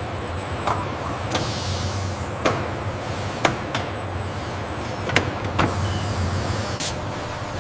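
Industrial machinery running with a steady low hum and hiss, broken by sharp metallic clanks every second or so.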